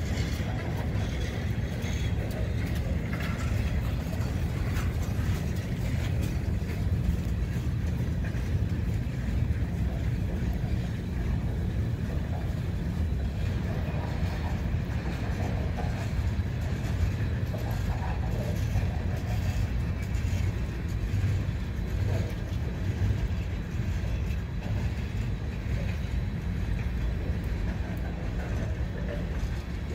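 Freight train of boxcars rolling past at speed: a steady low rumble of steel wheels on rail.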